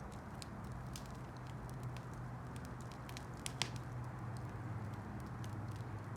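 Campfire burning, with irregular crackles and small pops from the burning wood and one sharper pop about three and a half seconds in, over a low steady rumble.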